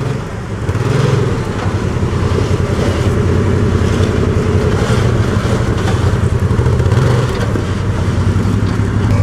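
Side-by-side UTV engine running at low speed under load while crawling over rock ledges, the revs rising slightly about half a second in and then holding steady.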